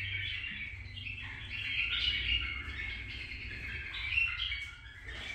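Cage birds chirping and twittering, a steady run of short high calls.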